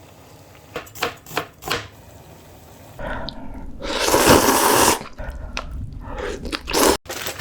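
Close-miked eating sounds from a spicy seafood ramyeon meal. First a few short, sharp clicks. About three seconds in comes a louder, longer noisy rush, loudest near the middle, followed by several shorter noisy strokes.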